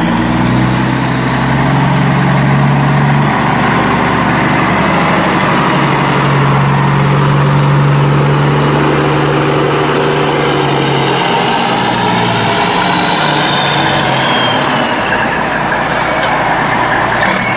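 A heavy engine running steadily, its low pitch stepping up and down a few times under a constant hiss.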